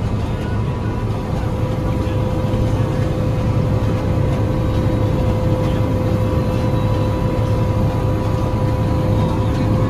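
Heavy farm harvest machine running steadily, heard from inside the cab: a constant low engine drone with a steady high whine over it.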